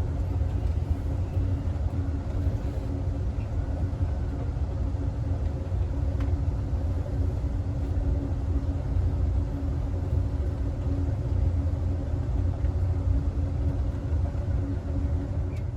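Steady rumble of a passenger train car rolling along the track, with a faint steady hum over it. The sound is heard from inside the last car of Amtrak's Southwest Chief.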